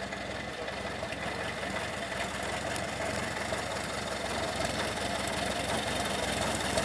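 Cessna 172 Skyhawk's four-cylinder piston engine and propeller running steadily, growing gradually louder.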